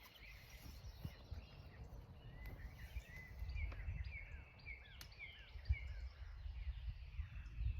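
A songbird calling a quick series of short, falling chirps through the middle few seconds, over a steady low rumble, with a sharp click about five seconds in.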